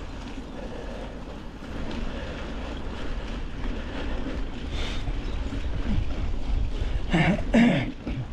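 Wind buffeting the microphone over the rumble of a mountain bike rolling along a trail. Near the end, two short vocal sounds from the rider.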